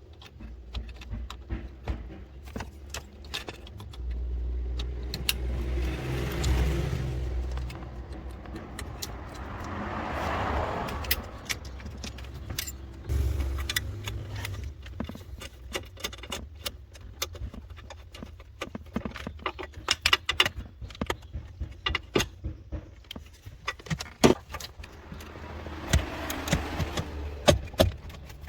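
Metal clinks and clicks of hand tools and parts being handled during car repair work, with a low rumble for a few seconds about four seconds in and again briefly near the middle.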